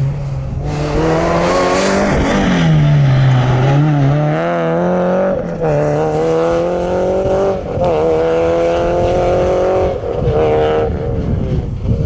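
Rally car driven hard past the roadside, its engine revving up and dropping in pitch at each gear change, about four or five times, before the sound fades into road and wind noise near the end.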